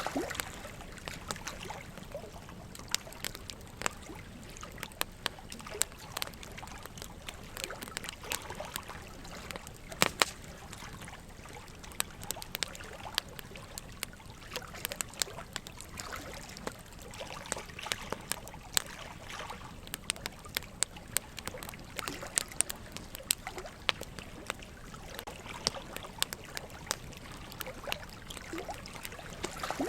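Wood fire crackling with frequent sharp pops, the loudest about ten seconds in, over a steady trickle of running water.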